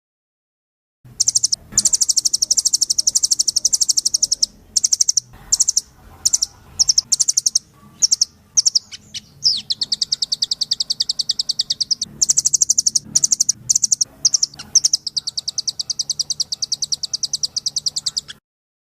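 A rambatan (nuthatch) songbird singing in long, rapid, high-pitched trills lasting several seconds each, broken by short chips and brief bursts.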